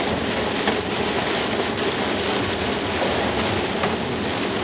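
Heavy, wind-driven rain beating steadily on a moving car's windshield and roof, heard from inside the cabin while driving through a thunderstorm's rain core.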